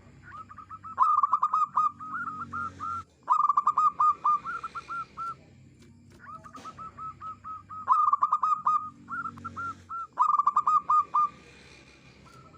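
Zebra dove (perkutut) singing: two song bouts, each a rapid run of short, clear cooing notes lasting about five seconds, with a pause of about a second between them.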